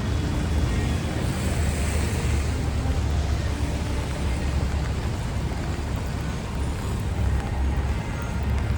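Steady city traffic rumble with the hiss of tyres on a wet avenue, swelling briefly about two seconds in.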